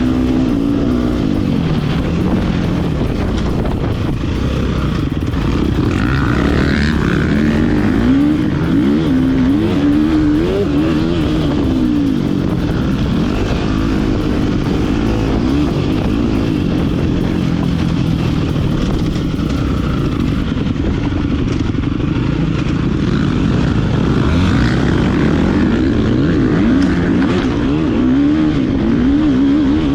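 Motocross dirt bike engine revving hard and backing off again and again as it is ridden round the track, its pitch rising and falling every second or two.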